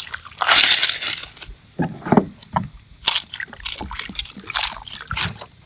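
Water splashing and sloshing in a container, strongest from about half a second to a second and a half in, then light knocks and scrapes of the container being handled: seawater being thinned with fresh water for purging clams.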